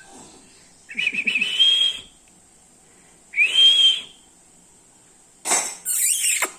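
Black-capped lory whistling twice, each a rising note held for about a second, then a harsh screech near the end.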